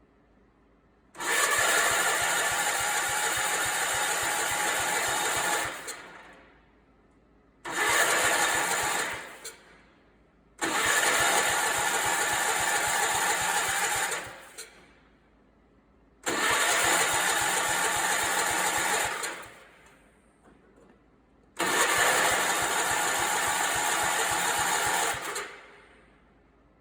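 Allis Chalmers 416 garden tractor's engine being cranked by its starter in five bursts of a few seconds each, each one winding down without the engine catching. The engine turns over with good compression but is not getting fuel to the carburettor, so it will not start.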